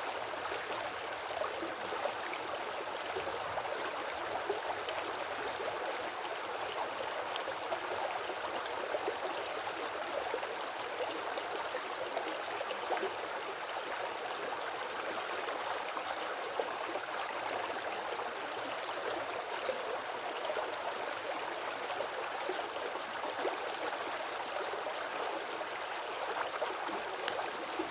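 Forest creek flowing and gurgling over rocks, a steady babbling rush with small splashes throughout.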